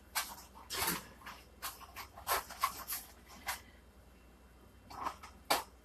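Hands handling a raw turkey: a run of short, irregular rustles, slaps and knocks, a pause, then a few more near the end.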